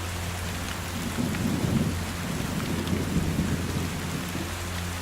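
Steady rain falling, with a low rumble that swells up about a second in and fades away near the end.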